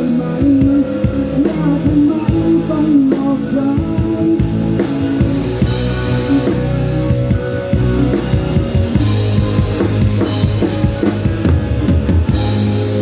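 Rock band playing live: drum kit with bass drum, electric guitar and bass guitar, steady and loud.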